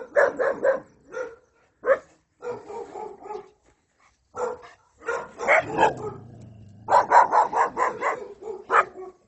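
A dog barking repeatedly in quick runs of several barks a second, with short pauses between runs.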